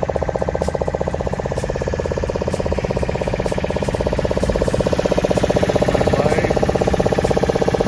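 A ferry's engine running steadily with a fast, even pulse, growing a little louder about halfway through.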